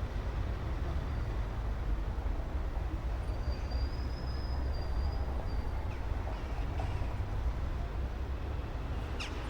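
Steady low rumble of city traffic, with a faint thin high whistle in the middle and a brief high chirp near the end.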